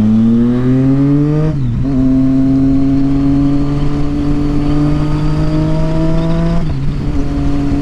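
Triumph Street Triple 675's inline-three engine, fitted with a Yoshimura aftermarket exhaust, accelerating through the gears on the road. The pitch rises, drops at an upshift about a second and a half in, climbs slowly again, and drops at a second upshift near the end before running steady.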